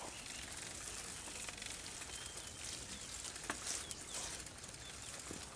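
Outdoor ambience with a steady hiss and a few short, high bird chirps, with a couple of faint knocks.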